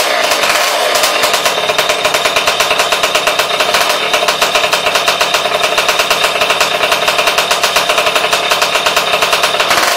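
Tomos DMP70 Sprinter's small two-stroke engine running steadily with a rapid firing beat, its loudness pulsing more noticeably from about four seconds in.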